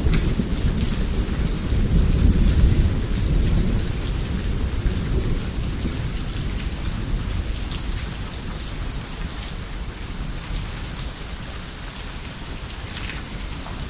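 Heavy rain falling steadily with scattered sharp drops, under a deep roll of thunder that is loudest in the first few seconds and fades away over the following seconds.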